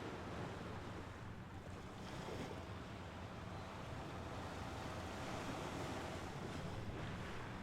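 Mediterranean Sea waves washing on a shore: a steady wash of surf that eases a little about two seconds in and builds again later.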